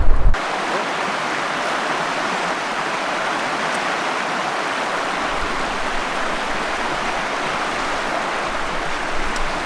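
River water running in a steady, even rush. A low wind rumble on the microphone cuts off abruptly just at the start.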